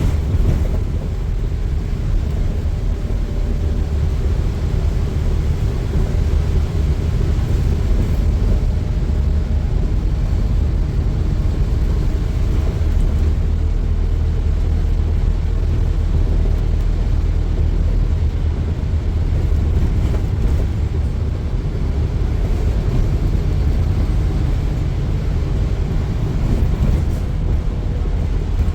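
Scania N230UD double-decker bus running along the road, heard from on board: a steady low engine and road rumble with a faint engine hum that holds without a break.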